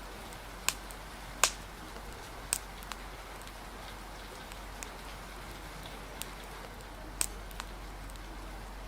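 Steady hiss of rain and wind with irregular sharp pops and crackles of a wood fire, about eight in a few seconds, the loudest about a second and a half in.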